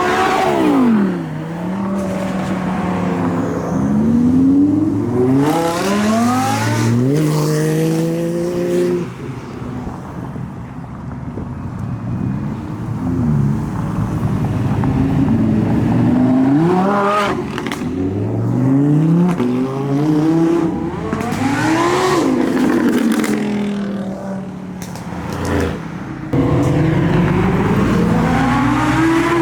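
Several cars accelerating hard one after another, each engine climbing in pitch and dropping back at the gear changes, then climbing again as it passes.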